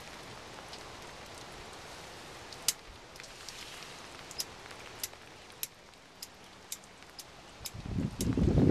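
Steady light rain hiss with scattered sharp raindrop ticks, about one or two a second. Near the end a louder low rumble comes in.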